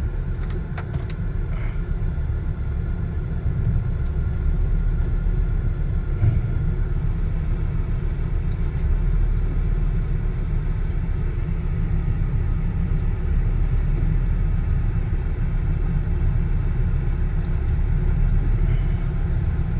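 1995 Volvo T5-R's turbocharged 2.3-litre inline five-cylinder engine running with a steady low rumble, the car being pulled outside at low speed.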